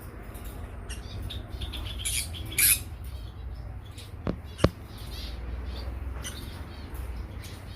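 Small aviary birds chirping and squawking, with a louder harsh squawk about two and a half seconds in. Two sharp clicks follow a little past the middle, over a low steady rumble.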